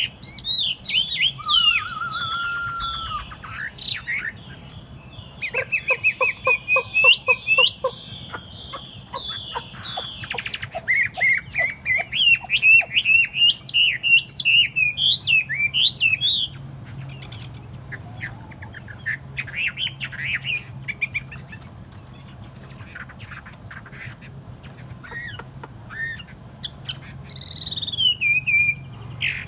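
Chinese hwamei (hoạ mi) singing a loud, varied song of whistled phrases, glides, trills and rapid repeated notes, sparser and fainter through the second half, with a loud falling phrase near the end. A steady low hum runs underneath.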